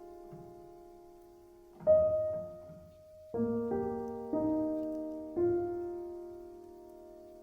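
Slow, quiet solo piano music: single notes and soft chords struck a second or so apart, each left to ring and fade.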